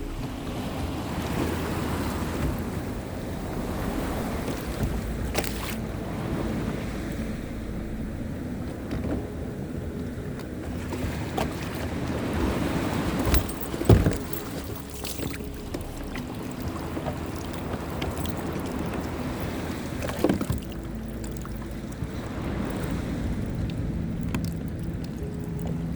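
Kayak under way on the ocean: water washing along the hull and wind on the microphone, with a faint steady hum. There is a sharp knock about 14 seconds in and another around 20 seconds.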